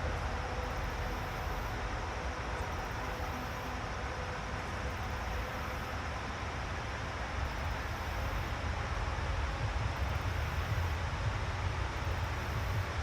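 Steady outdoor background rumble and hiss with no distinct events: a deep, unsteady low rumble under an even haze of noise.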